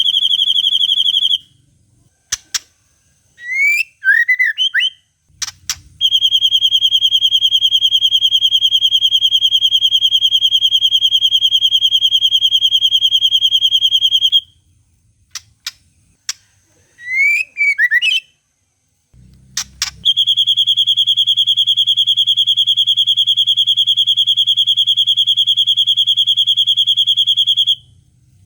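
White-rumped shama (murai batu) song: long, steady, fast-pulsed trills of about eight seconds each, in the style of a long cililin call, alternating with short gliding whistled notes and sharp clicks. A trill ends just after the start, a new one starts about six seconds in and another about twenty seconds in, each carrying a faint low hum beneath it.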